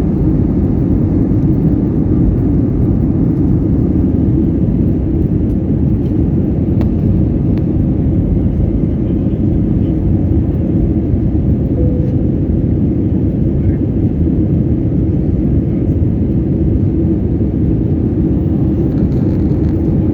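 Airbus A321 jet engines at takeoff power: a steady, loud, low rumble that holds unchanged throughout.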